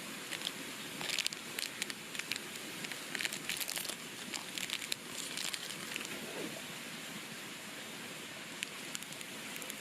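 Crinkling and rustling of something being handled, in irregular bursts through the first six seconds or so, over a steady background hiss.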